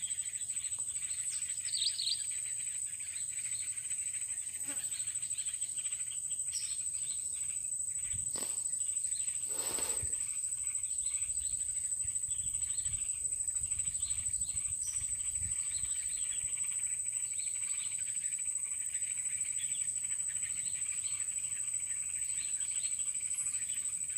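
Swamp ambience: a steady high-pitched insect drone with many short bird chirps over it, and a couple of soft knocks about eight and ten seconds in.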